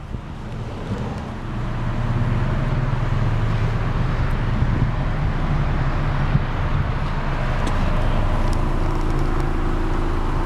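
1999 Honda Prelude's 2.2-litre DOHC VTEC four-cylinder idling steadily, heard at the polished exhaust tips; it grows louder about a second and a half in, then holds an even hum.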